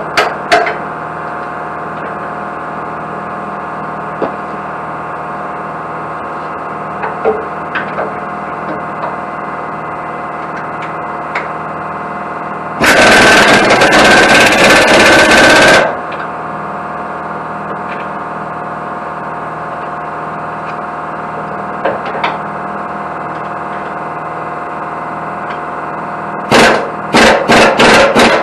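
Pneumatic impact wrench (air gun) hammering on bolts in bursts: a few short bursts at the start, one of about three seconds in the middle, and several quick bursts near the end, over a steady machine hum.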